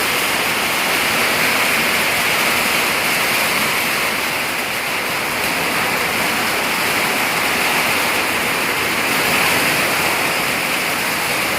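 Heavy rain pouring down steadily in a severe storm: a dense, even hiss with no thunder claps.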